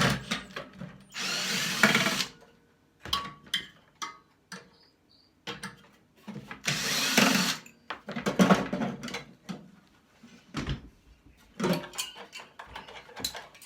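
Cordless power drill or driver running in two bursts of about a second each, backing out the screws that hold a microwave's magnetron, with clicks and knocks of metal parts being handled between the bursts.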